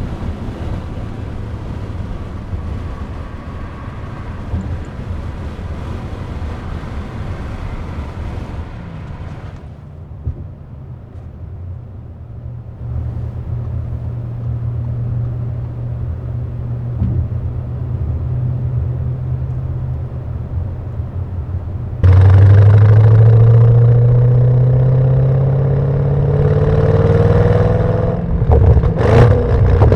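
Audi RS6 Performance's twin-turbo V8 through a Valvetronic catback exhaust, running at low, steady revs. About two-thirds of the way through it suddenly gets much louder and its pitch rises as the car accelerates, with a brief sharp burst near the end.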